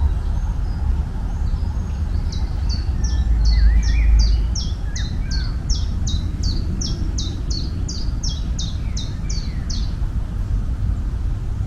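A bird singing a long series of high, quickly falling notes, about three a second for some eight seconds, over a steady low rumble that swells briefly about four seconds in.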